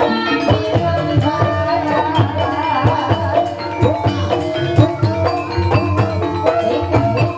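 Live Banyumas ebeg accompaniment: a Javanese gamelan ensemble playing, with kendang hand-drum strokes and a wavering melodic line over steady pitched notes.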